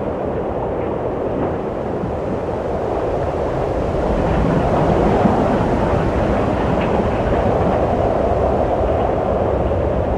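Steady wind blowing with a low rumble, swelling a little about four seconds in.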